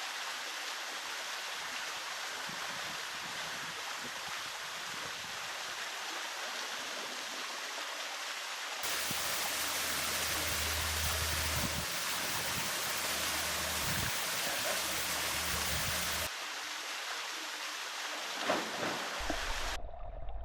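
Steady rush of flowing creek water, louder and fuller from about nine seconds in to about sixteen.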